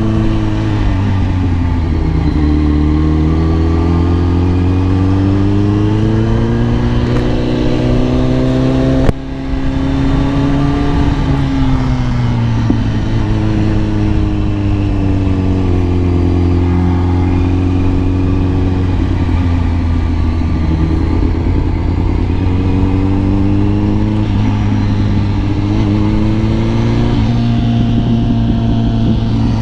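Kawasaki ZX-10R's inline-four engine under way, revs rising and falling repeatedly as the bike accelerates and eases off. A sharp click with a momentary drop in level comes about nine seconds in.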